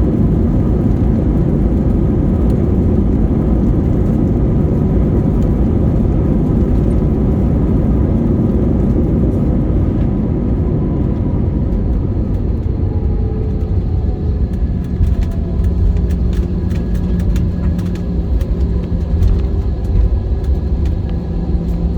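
Airliner cabin noise as the jet rolls out after landing: a loud, steady rumble of engines and wheels on the runway. About halfway through the rumble eases, steady engine tones and a slowly falling whine come through, and faint clicks and knocks follow.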